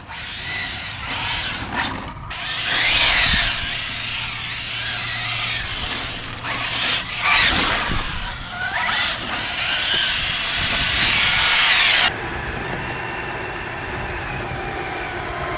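Arrma Felony 6S RC car's brushless motor whining, its pitch rising and falling as it speeds up and slows repeatedly over a rushing haze of tyre noise. The sound drops suddenly to a quieter, steadier level about twelve seconds in.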